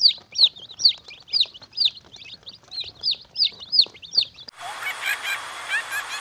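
A bird's loud, sharp chirps repeated at about two a second, each sweeping down in pitch. About four and a half seconds in it cuts off abruptly and a different sound begins: fainter short repeated calls over a steady hiss.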